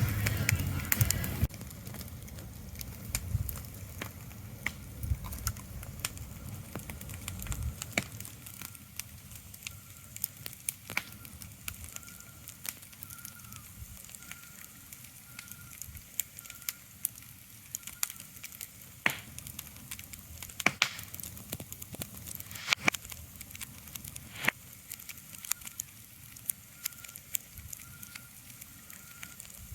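Wood fire crackling, with scattered sharp pops over a low hiss. A low rumble underneath stops about eight seconds in. From about twelve seconds on, a faint high chirp repeats in short, evenly spaced notes.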